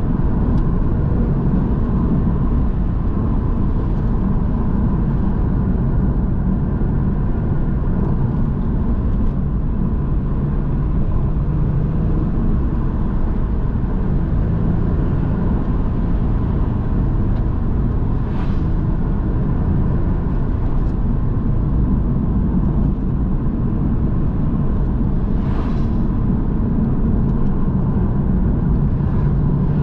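Porsche 911 flat-six engine running steadily at cruising speed, with tyre and road noise, and a brief hiss about two-thirds of the way through and again near the end.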